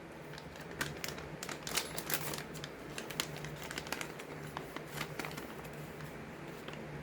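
Scattered light clicks and taps of hands handling a new fuel petcock and its fitting at a generator's plastic fuel tank, over a steady low hum.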